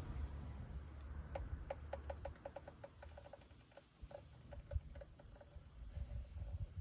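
Wood fire crackling in a rusted can: a quick run of small pops starting about a second in, thinning to scattered pops later, over a low rumble.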